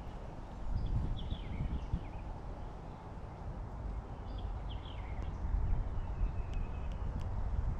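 Small songbirds chirping a few times in short clusters of quick notes, over a steady low rumble of wind on the microphone.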